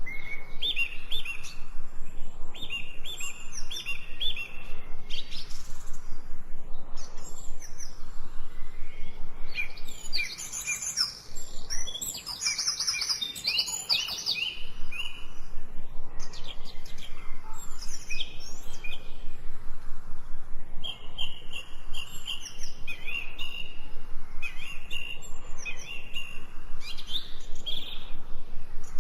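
Several songbirds singing and calling over one another, in quick runs of short, high, repeated chirps and trills.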